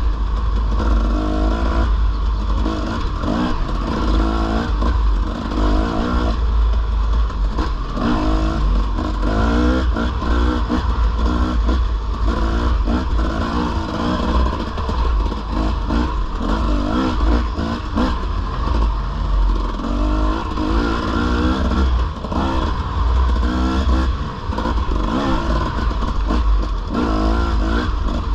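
Dirt bike engine under way on a trail, its revs rising and falling repeatedly as the throttle is worked, over a constant low rumble.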